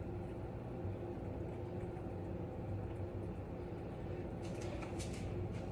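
A steady low background hum, with a few faint clicks near the end.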